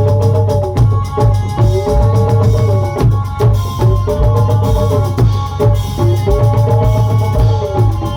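Live band playing an instrumental break in a Shiva bhajan: a steady drum beat under a melody line that rises and falls in a phrase repeating about every two seconds.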